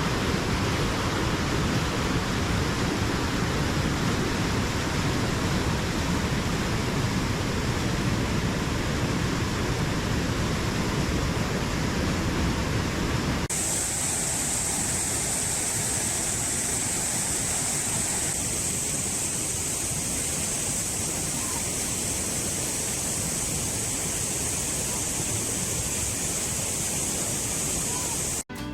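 Waterfall rushing: a steady, even noise of falling water. It changes abruptly about halfway through to a brighter, hissier rush.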